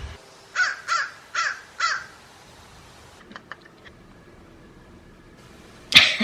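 A bird calling four times in quick succession, about two calls a second, followed by a few faint ticks.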